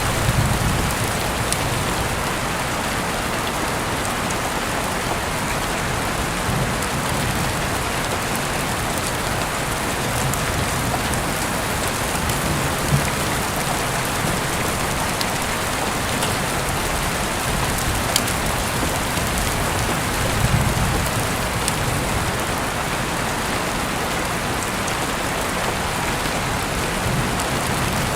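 Heavy rain falling steadily, heard through an open window, with a few sharper drops ticking now and then.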